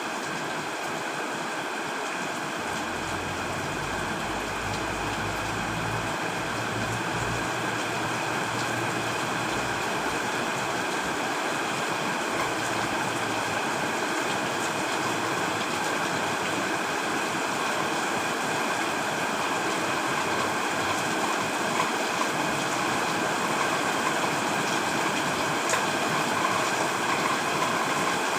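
Heavy rain falling steadily on a tent, growing slightly louder, with a faint low rumble in the first few seconds.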